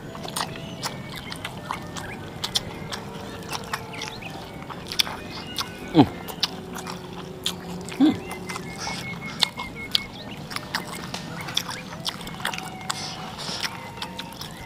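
Close-up eating sounds of spicy tofu and rice being chewed: many sharp mouth clicks and smacks, with a short falling sound about six seconds in.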